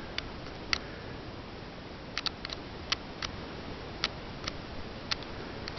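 Handheld camera being handled, with about a dozen small, sharp, irregularly spaced clicks from fingers on its buttons and body while trying to zoom, over a steady faint hiss.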